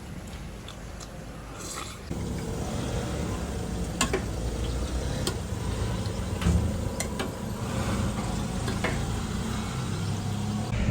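A steady hiss with a low hum underneath, and a handful of sharp clicks and clinks scattered through it, like utensils and cookware being handled at a food stall.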